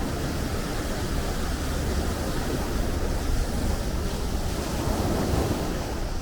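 Sea waves washing steadily on the shore, with a low wind rumble on the microphone. A wave swells louder about five seconds in.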